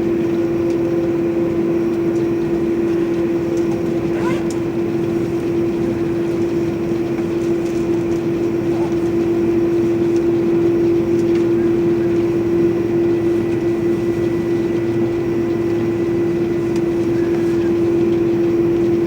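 Airbus A330-300's General Electric CF6 turbofan engines running steadily after start-up: an even jet rumble with a steady humming tone. A brief faint rising chirp comes about four seconds in.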